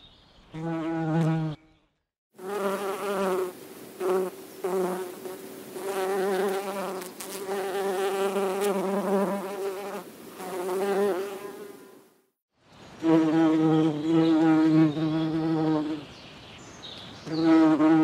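Bees buzzing in a string of passes that swell and fade, the hum breaking off briefly about two seconds in and again around twelve seconds in.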